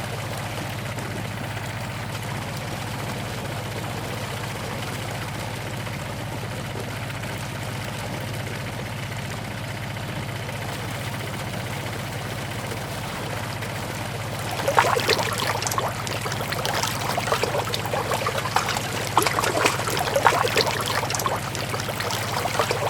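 A small electric motor running with a steady low hum. About fifteen seconds in, an irregular crackling, trickling sound of material or water being poured joins it and carries on to the end.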